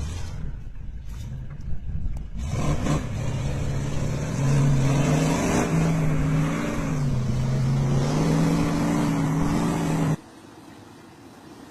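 A vehicle engine running under load, its pitch rising and falling as it revs, over a low rumble; it cuts off abruptly about ten seconds in.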